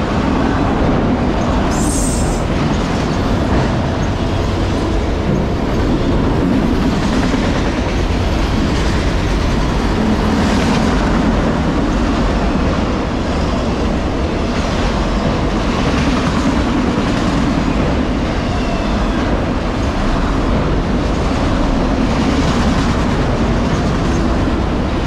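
A freight train of empty autorack cars rolls past close by: a loud, steady rumble of steel wheels on rail, with the clickety-clack of wheels over rail joints. A brief high-pitched squeal comes about two seconds in.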